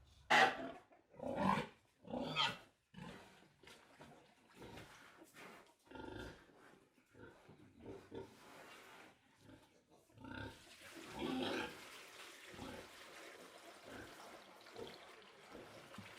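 Pigs calling: three loud, short calls in the first three seconds, then quieter, irregular calls and noises.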